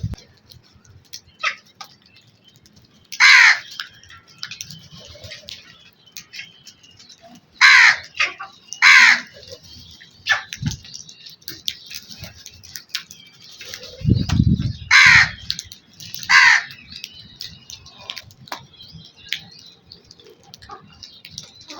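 Crows cawing: five loud, harsh caws of about half a second each, spread out with two pairs close together, and fainter short calls in between. A short low rumble comes just before the fourth caw.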